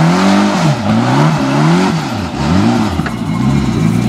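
Mitsubishi rally car's engine revved up and down over and over, about once a second, with the wheels spinning as the car tries to drive out of a roadside ditch. Near the end the revs settle into a steady note.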